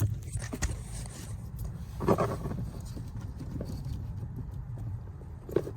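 Plastic wiring connectors and wires being handled and repositioned behind a car's dash panels: scattered clicks and knocks, with a denser cluster of rustling and clatter about two seconds in.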